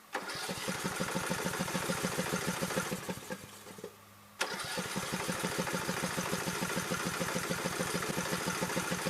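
Racing lawn mower's engine being cranked over by its starter in two long tries, a rapid even chugging with a short pause about four seconds in; the engine does not catch. The engine has been sputtering and dying on the owner.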